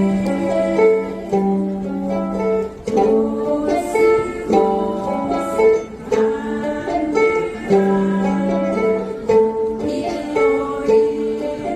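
Ukulele ensemble playing a song together, plucked chords and notes in a steady rhythm.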